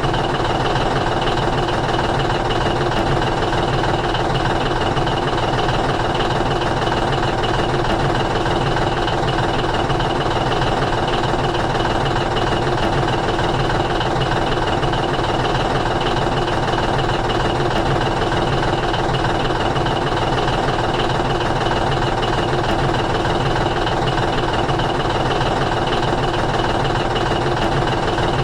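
A steady engine idling drone that runs on without change.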